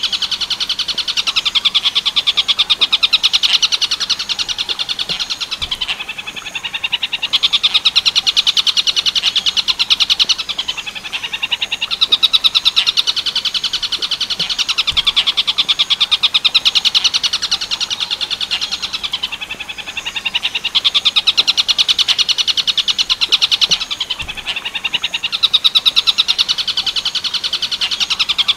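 Tengkek buto bird song from a shrike training recording: a rapid, high, rattling trill of fast repeated notes. It comes in long phrases of several seconds, each broken by a brief pause.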